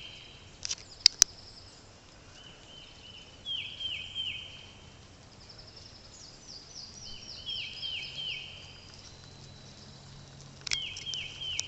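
Quiet outdoor background with a bird calling short series of three or four quick falling chirps every few seconds, and two sharp clicks about a second in.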